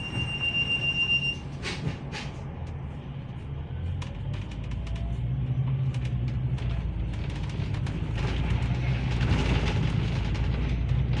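A steady electronic tone stops about a second in. After it, a vehicle's low, steady running rumble with a few light clicks grows gradually louder.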